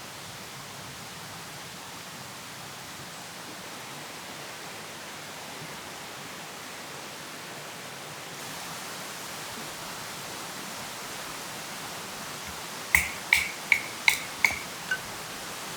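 A steady hiss of background noise, then near the end a quick run of about six sharp clicks that ring briefly, like light knocks on a hard object.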